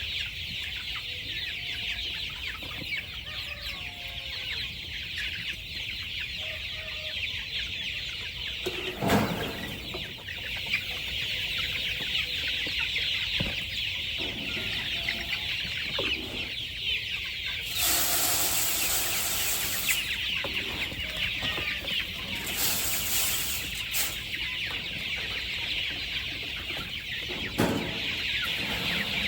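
A flock of chickens clucking, over a steady high-pitched chirring. A few brief louder noises break in, the longest lasting about two seconds just past the middle.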